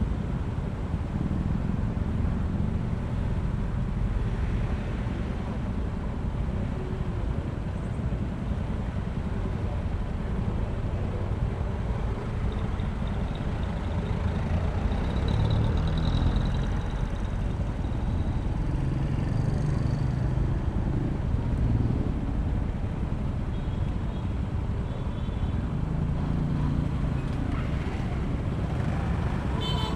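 Honda ADV160 scooter's single-cylinder engine running steadily while riding, with road and traffic noise around it.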